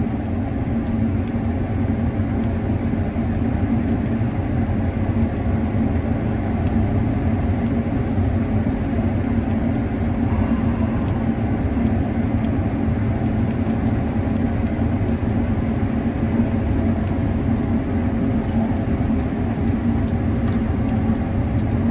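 Combine harvester running steadily while harvesting corn, an even engine-and-machinery drone with a constant low hum.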